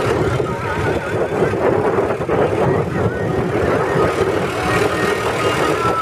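Mahindra Arjun tractor's diesel engine running steadily, with a wavering high tone heard a few times over it.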